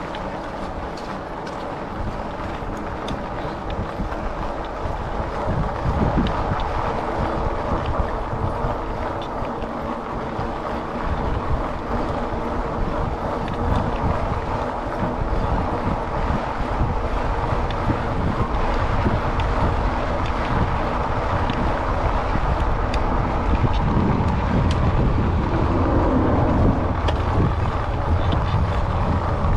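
Wind rushing over a chest-mounted action camera while riding a fat-tyre e-bike, with a steady low hum and rolling noise underneath.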